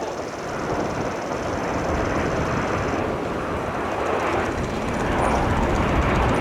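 Aermacchi MB-339 PAN jets of the Italian aerobatic team flying over, their Rolls-Royce Viper turbojets making a rushing jet noise that grows steadily louder as they approach.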